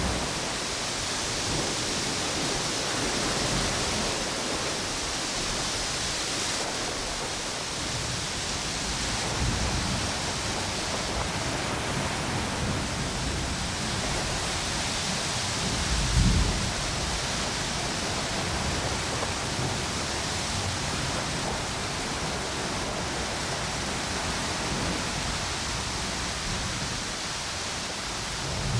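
Storm wind blowing over a tropical beach with ocean waves washing on the shore: a steady rushing hiss, with low gusts rumbling through and one stronger gust about sixteen seconds in.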